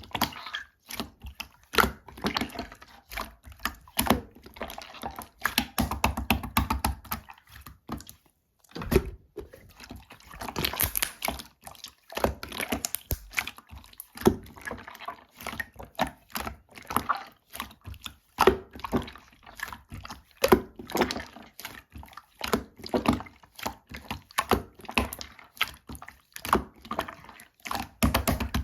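Glossy slime being squeezed, poked and folded by hand, making a dense run of wet clicks, pops and squelches with occasional soft thuds.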